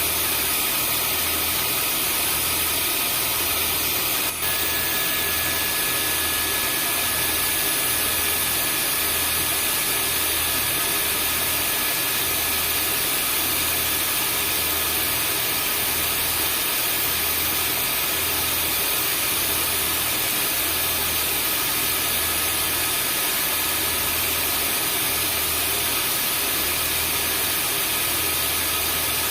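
Vacuum cleaner motor running steadily: a constant rushing noise with a high whine over it and a low hum that pulses about once a second. About four seconds in there is a short click, and a new steady whistle tone joins.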